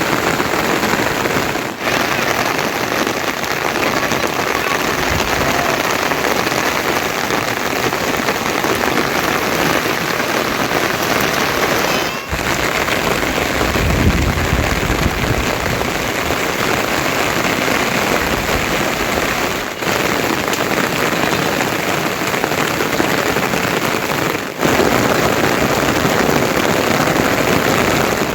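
Heavy monsoon rain falling steadily as a dense, even hiss. The sound dips for a moment several times, and a low rumble swells briefly about halfway through.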